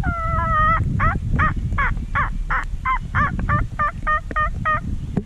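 A bird calling: one long note, then a run of about eleven short calls at roughly three a second, stopping near the end. A low rumble of wind or handling noise lies underneath.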